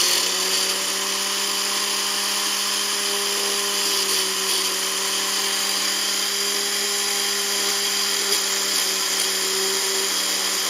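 Electric drill spinning a 45-degree valve seat grinding stone against its truing (dressing) tool: a steady motor whine with a gritty grinding hiss. The stone is being trued up because the hardened valve seats have worn a groove in it.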